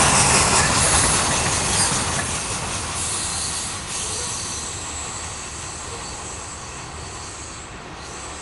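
Covered hopper cars of a freight train rolling past, wheels rumbling and rattling on the rails, with a faint high wheel squeal. The noise fades steadily as the end of the train passes and draws away.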